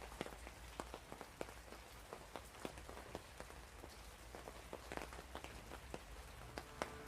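Rain falling, with many separate drops ticking irregularly on a hard surface.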